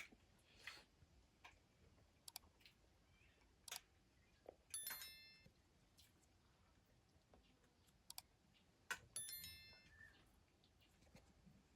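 Faint scattered clicks, with two brief ringing clinks about five and nine seconds in.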